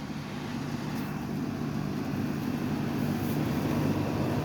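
Steady outdoor background noise with a low hum under it, slowly getting louder; no distinct events stand out.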